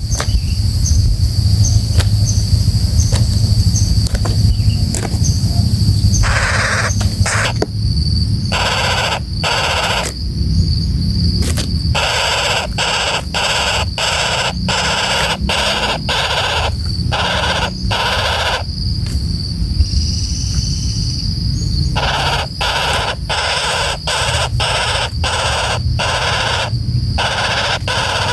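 Flameback woodpecker (pelatuk bawang) giving harsh, rasping calls over and over, about one a second, starting a few seconds in. Under them run a steady high insect drone and a low rumble.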